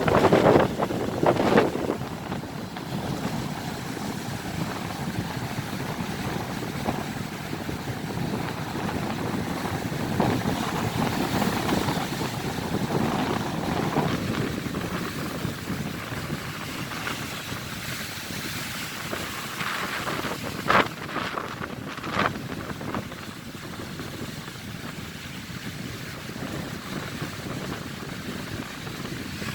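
Stormy sea: waves surging and breaking in a steady rushing noise, with wind buffeting the microphone, louder in the first couple of seconds. Two brief sharp knocks about two-thirds of the way through.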